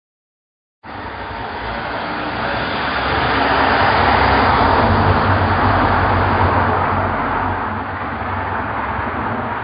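London taxi (black cab) engine and road noise as it drives. The sound starts suddenly about a second in, grows louder toward the middle, then eases off a little.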